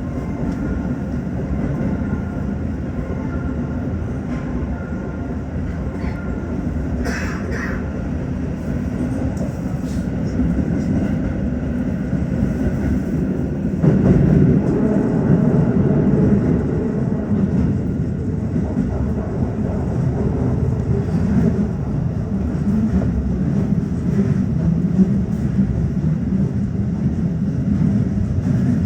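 Tokyo Metro 15000 series electric train running at speed, heard from inside the front car. The running noise turns louder about halfway through and stays up.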